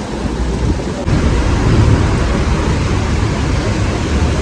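Heavy rain with strong gusting wind buffeting the microphone: a dense, steady noise with a heavy low rumble that gets louder about a second in.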